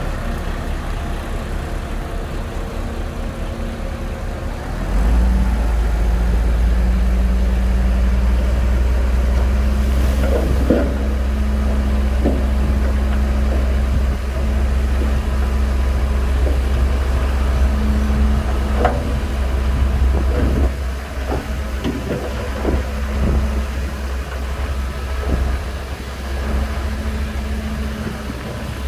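Shantui crawler bulldozer's diesel engine running, going up under load about five seconds in and easing off again about two-thirds of the way through, with scattered knocks from the machine as it works.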